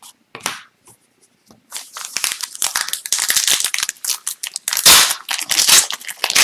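A few light clicks, then from about two seconds in a dense crinkling and tearing of a hockey card pack's foil wrapper being torn open and scrunched.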